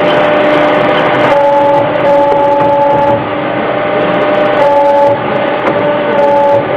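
CNC mandrel tube bender with servo drives running through its bending moves: a steady hum with a whine that starts and stops every second or so as the axes move and pause.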